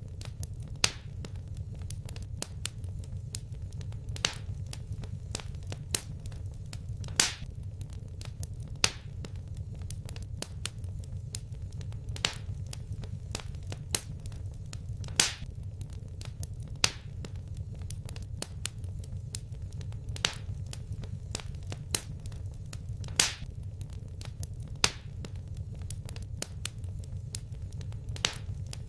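Fireplace fire crackling: sharp pops every second or two, with many fainter ticks between, over a steady low rumble.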